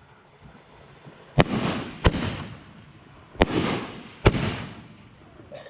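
Fireworks going off: four sharp bangs about a second apart, each trailing off briefly.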